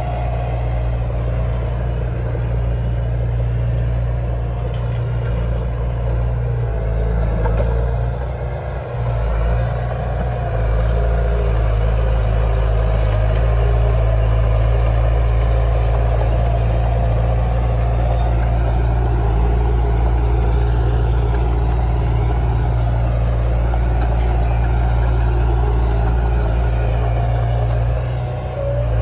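Heavy diesel engine of earthmoving machinery running steadily with a deep hum, briefly easing off about nine seconds in and then running louder for the rest.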